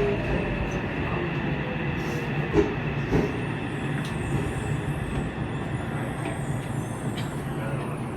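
Yokohama Municipal Subway Blue Line train running: a steady rumble of wheels and running gear, with two short knocks about two and a half and three seconds in.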